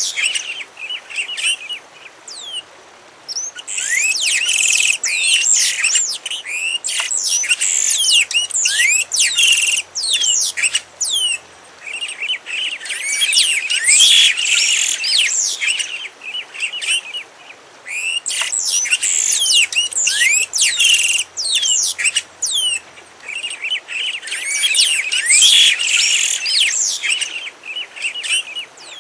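A songbird singing long, rapid, twittering phrases of quick rising and falling notes, each phrase a few seconds long and repeated after short pauses.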